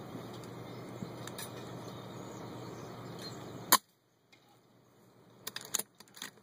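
FX Impact .177 PCP air rifle firing a single shot, a sharp snap a little past halfway, over steady background noise. A few faint clicks follow near the end.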